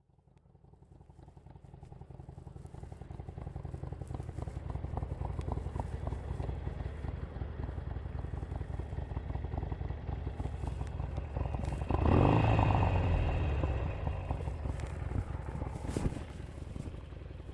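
Harley-Davidson 883's air-cooled V-twin engine running with a low rumble, fading in over the first few seconds. About twelve seconds in it gets suddenly louder for a couple of seconds, then settles back.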